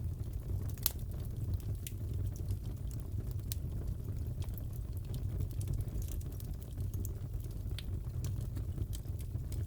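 Fire crackling in a fireplace: scattered sharp pops and snaps over a steady low rumble, with one louder pop about a second in.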